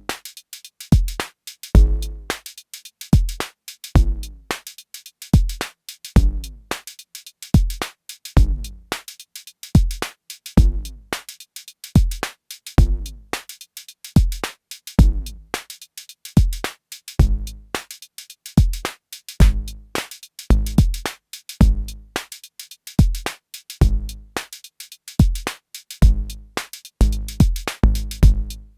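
Arturia DrumBrute Impact analog drum machine playing a looping beat: kick drum, bright noisy hi-hat hits and pitched drum hits that fall in pitch. About halfway through the falling sweeps stop and the pattern carries on with steadier hits.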